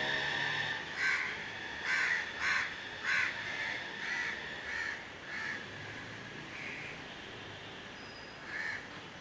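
An animal calling: a run of short calls about half a second apart, loudest over the first few seconds and then weakening, with one more call near the end.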